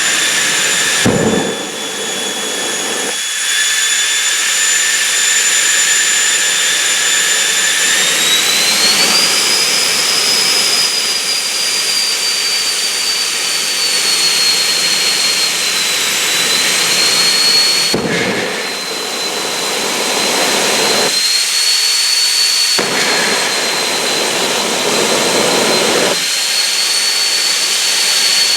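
Jet car's turbine engine running with a loud, high-pitched whine. The pitch rises about eight seconds in and then holds, and the sound changes abruptly several times.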